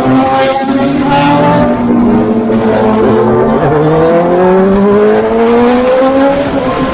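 Superbike engine running hard under acceleration, its pitch climbing steadily through a gear over the last few seconds.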